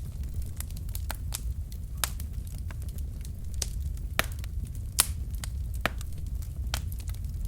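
Wood fire crackling in a fireplace: irregular sharp pops and snaps from the burning logs, a few louder ones about four and five seconds in, over a steady low rumble of the flames.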